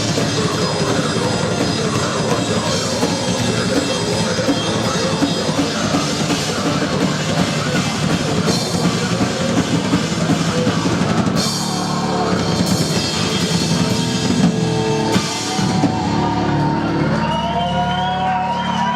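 Live rock band playing loudly, with a drum kit and bass drum driving under the guitars and bass. About four seconds from the end the pounding drumming drops back to long held chords with wavering sustained tones above them.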